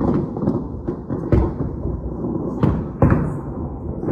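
Aerial fireworks shells bursting in a rapid run of booms over a continuous low rumble. The loudest booms come about a second and a half in and again near the three-second mark.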